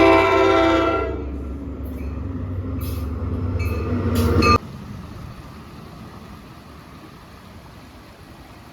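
An NJ Transit train sounds its horn for about a second, then rumbles past, growing louder until it cuts off abruptly about four and a half seconds in; quieter steady background noise follows.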